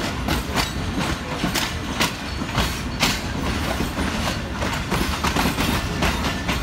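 Pakistan Railways Shalimar Express passenger coaches running along the track, heard from an open coach doorway: a steady loud rumble of wheels on rail with clicks over the rail joints about twice a second.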